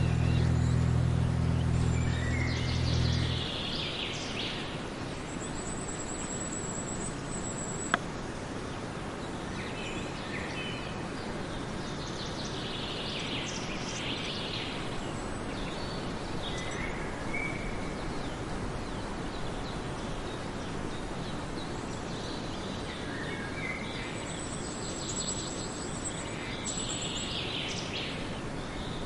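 Outdoor nature ambience: several bouts of bird chirping and thin, high insect-like trills over a steady background hiss. A low steady hum cuts off suddenly about three seconds in, and a single sharp click comes about eight seconds in.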